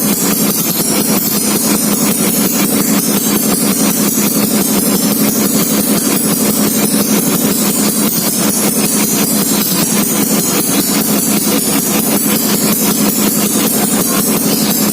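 Yamaha Mio scooter's single-cylinder four-stroke engine, bored up to 155cc with big valves, idling steadily while it warms up, with an even run of firing pulses.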